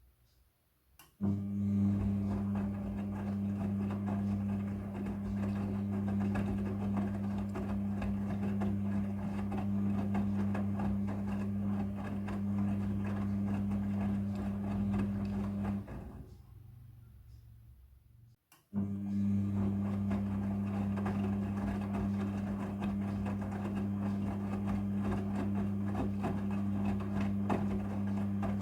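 Midea front-loading washing machine in its wash cycle: the drum motor hums steadily while the clothes tumble and slosh. The drum runs for about fifteen seconds, winds down and stops for about two seconds, then starts again, turning back the other way.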